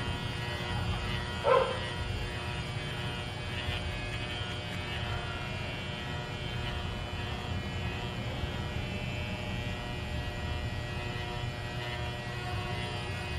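Electric hair clippers humming steadily while shaving a small dog, with one short, high yelp from the dog about a second and a half in.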